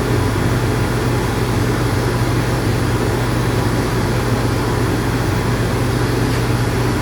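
Electric dog grooming clippers running steadily with an even hum.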